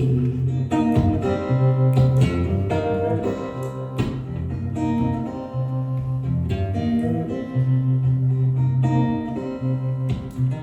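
Instrumental music: acoustic guitars strummed and picked over a low bass line, with no singing.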